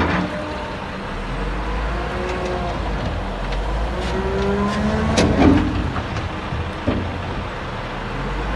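Heavy diesel machinery engine running with a steady low rumble, its pitch gliding up and down as it revs under load. A short knock comes about five seconds in.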